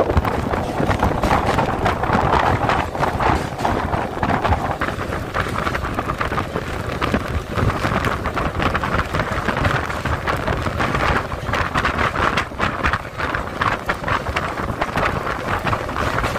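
Passenger train running at speed, heard from on board: a steady rumble with constant rattling and clatter, wind buffeting the microphone, and rain falling outside.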